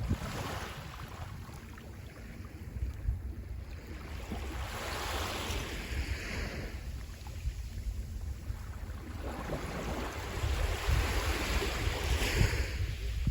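Sea waves washing onto the shore in three surges about four to five seconds apart, the last the loudest near the end, over a low rumble of wind on the microphone.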